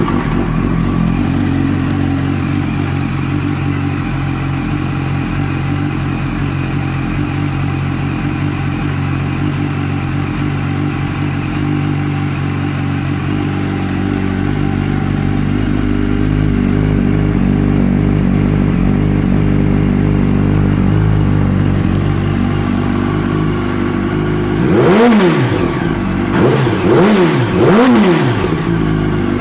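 2007 Yamaha YZF-R1's inline-four engine, breathing through a Two Brothers Black Series twin exhaust, idling steadily just after start-up. Near the end the throttle is blipped three times in quick succession, each rev rising and falling back to idle.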